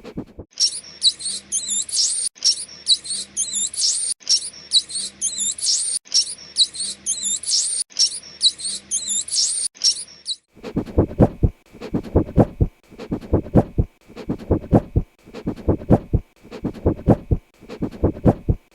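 A small animal's rapid, high-pitched squeaking chirps, repeated in near-identical bursts about every two seconds. About ten seconds in they give way to a different animal's low, pulsed calls, roughly two a second.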